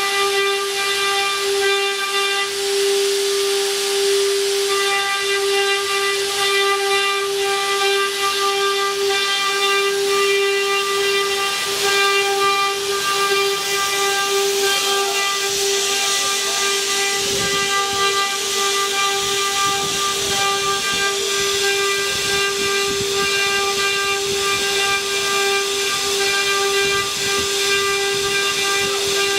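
Spindles of a multi-head four-axis rotary CNC wood router running with a steady high whine over a hiss as they carve wood. About halfway through, a rougher, irregular noise joins the whine.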